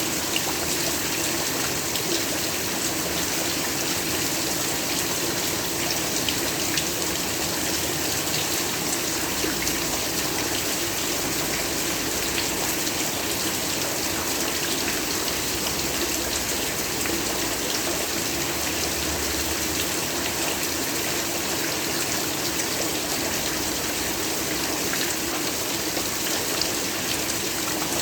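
Steady heavy rainfall, a dense even hiss with many fine drop ticks.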